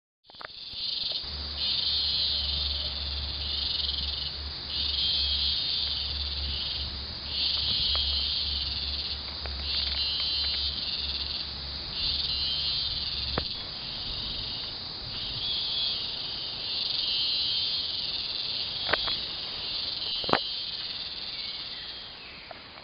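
Rainforest insects shrilling in loud, pulsing bouts of a second or two with short breaks between them. A low steady hum lies under it and stops about halfway through, and two sharp clicks come near the end.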